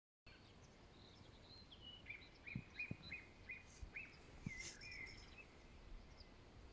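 Faint birdsong: a songbird sings a phrase of about seven short, evenly repeated notes, led in by a few higher notes that step down. A few soft low thumps sound underneath.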